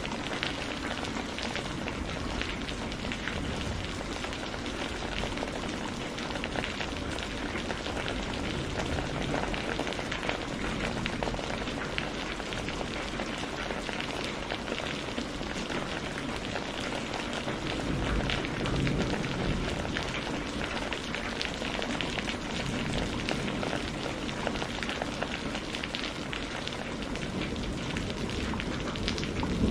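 Steady rain falling on a surface, a dense even hiss with individual drops ticking through it. A low rumble swells briefly a little past halfway.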